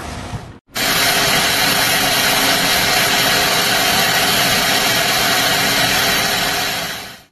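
A machine's engine or motor running steadily, a loud even hiss over a faint constant hum. It begins after a brief break near the start and fades out near the end.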